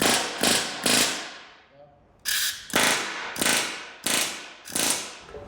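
Pneumatic air hammer driving rivets in short bursts: three bursts about half a second apart, a brief pause, then five more.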